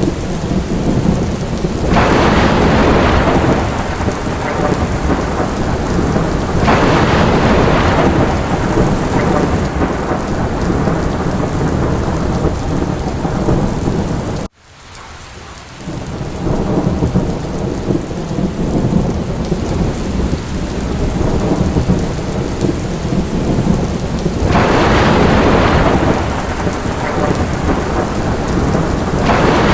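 Heavy rain falling steadily, with rolling thunder and several louder swells. About halfway through the sound cuts out abruptly and fades back in.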